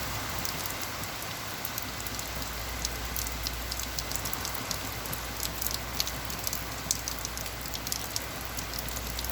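Heavy rain falling steadily, with many sharp drip and splash ticks close by, as of water dripping off the roof edge and pounding a porch.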